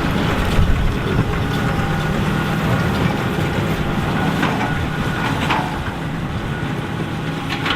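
John Deere 8530 tractor's diesel engine running steadily under load while it pulls a Massey Ferguson 2190 large square baler, with a few sharp knocks from the baler's mechanism. The sound slowly fades in the second half.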